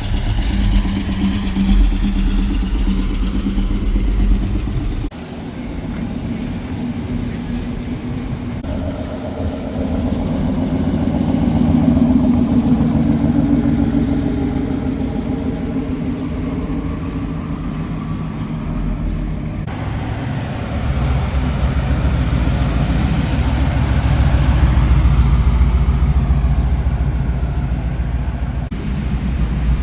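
Vehicle engines running as cars drive past, the sound swelling and fading twice, with two abrupt changes in the sound, about five seconds in and about two-thirds of the way through.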